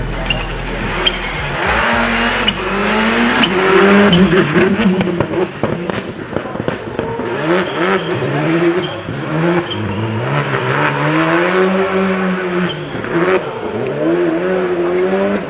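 Rally car engine revving hard, its pitch climbing and dropping again and again as it shifts through the gears, loudest about four seconds in.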